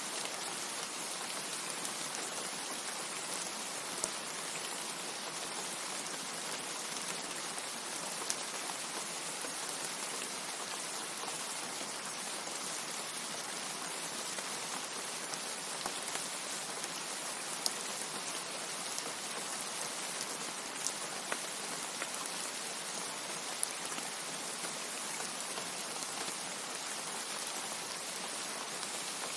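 Steady rain falling, a dense, even hiss of drops with a few louder single drop ticks scattered through it.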